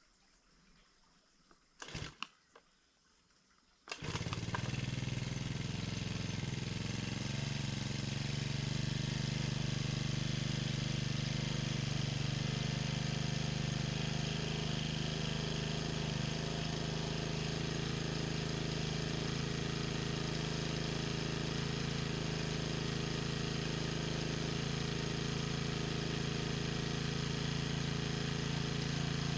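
Small petrol engine, likely the mower's: a couple of short pulls about two seconds in, then it catches about four seconds in and runs steadily.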